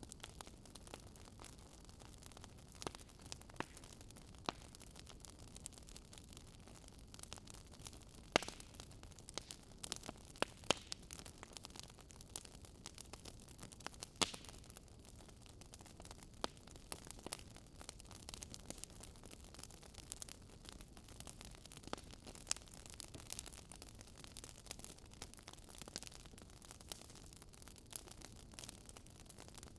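Fireplace crackling faintly: irregular sharp snaps and pops over a low steady hiss.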